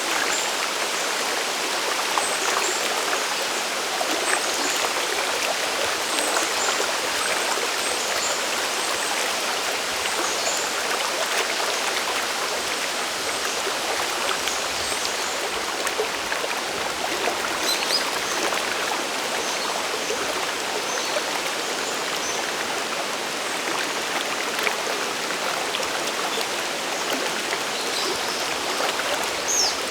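Steady rush of water from a mountain stream and waterfall, even throughout, with faint high chirps here and there.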